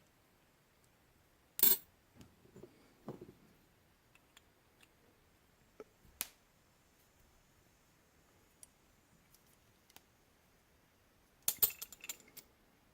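Brass valve parts clicking and clinking as they are handled and fitted back together: a sharp click about a second and a half in, another near six seconds, and a quick cluster of clicks near the end, with soft handling noises between.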